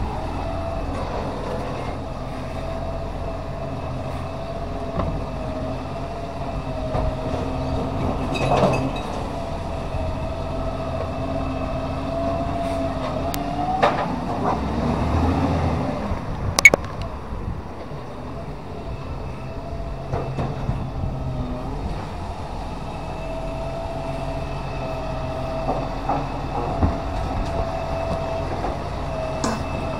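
Recycling garbage truck running with a steady whine that dips and rises again around the middle, with a few knocks and one sharp clank about two-thirds of the way through.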